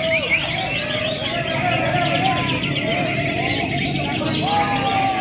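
Caged songbirds singing at once: a dense, overlapping chorus of whistles, chirps and trills.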